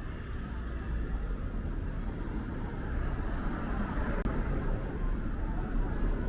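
Road traffic noise, a steady rumble of passing vehicles that grows gradually louder.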